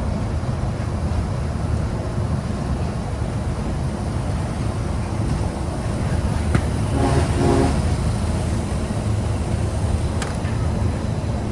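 The electric Disneyland Monorail train running along its beam, heard from inside the cabin as a steady low rumble and road-like noise. A brief pitched sound cuts in a little after seven seconds.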